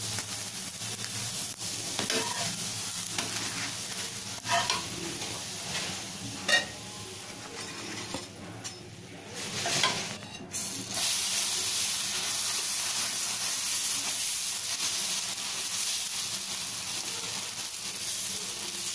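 Dosa batter sizzling on a hot nonstick pan, with short scrapes and taps of a steel spatula against the pan. From about eleven seconds in a louder, steady sizzle sets in, and near the end fresh batter is being spread with a ladle.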